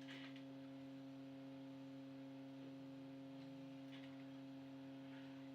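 Steady low electrical hum from bench equipment, with a faint short rustle just after the start and another about four seconds in.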